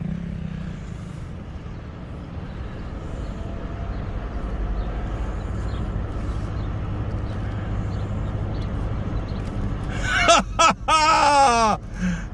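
A low, steady engine rumble that builds a little midway. About ten seconds in, a man gives two loud, sweeping whoops.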